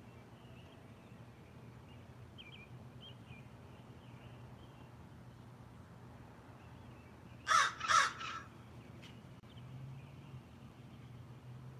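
A crow gives two loud, harsh caws in quick succession about two-thirds of the way through, with a short trailing note after them.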